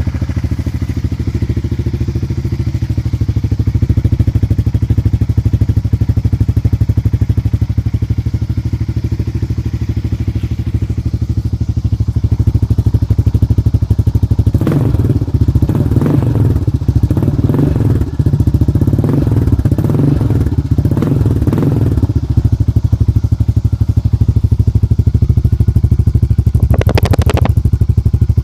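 Honda Rancher 420 ATV's single-cylinder four-stroke engine idling loudly through a Slasher aftermarket exhaust, with a string of throttle blips from about halfway through lasting several seconds, and one more short blip near the end.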